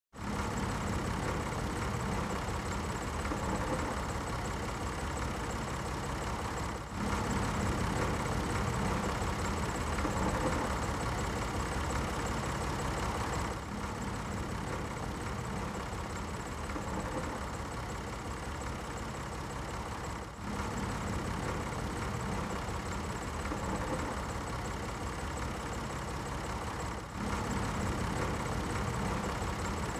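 Tractor engine running steadily at idle, a recorded loop that repeats about every seven seconds with a brief dip at each join.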